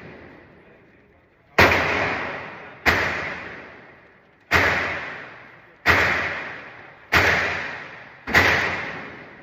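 Six single shots from a semi-automatic pistol, fired at a slow, even pace about one and a half seconds apart, each trailing off over about a second.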